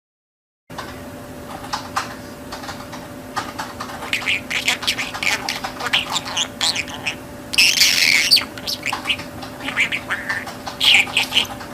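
Pet budgerigar chattering and warbling in quick chirps, with one louder harsh squawk about eight seconds in. It starts after a short silence, over a steady low hum.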